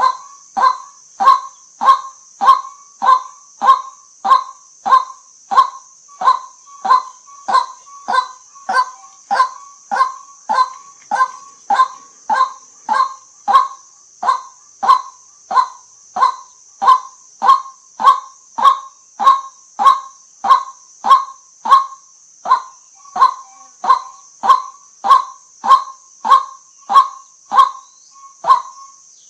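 White-breasted waterhen giving its honking 'kwak' call over and over at an even pace, about one and a half to two calls a second.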